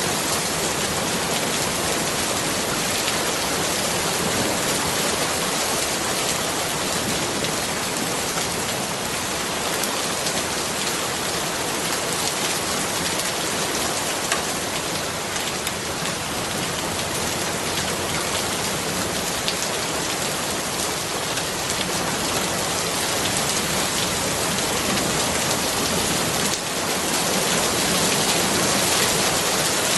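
Steady rain falling and pattering on surfaces as an even hiss, with scattered faint drop ticks; it grows slightly louder near the end.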